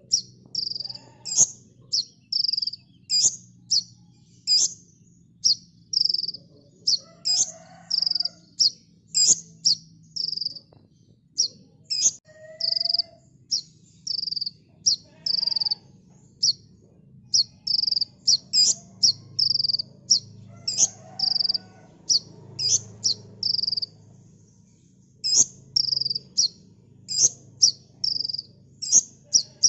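A kolibri ninja sunbird singing a fast, unbroken string of short, high chirps, about two a second, with a brief pause about three quarters of the way through.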